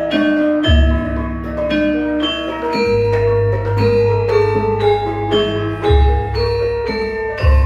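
Javanese gamelan ensemble playing a gending: bronze metallophones ring out a stepping, interlocking melody over deep low tones struck about four times.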